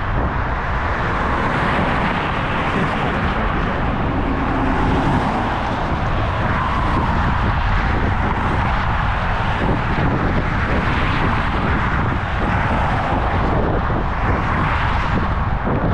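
Steady wind rushing over a GoPro's microphone while riding a bicycle, with a continuous low rumble from the ride.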